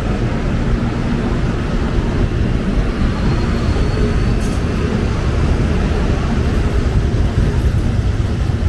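Electric commuter train running past at the platform with a steady low rumble, a faint thin high whine for about a second near the middle.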